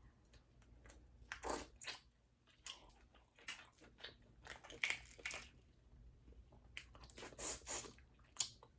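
Close-miked eating sounds of a crawfish seafood boil: irregular crunching, biting, wet smacks and chewing, with a few louder smacks spread through.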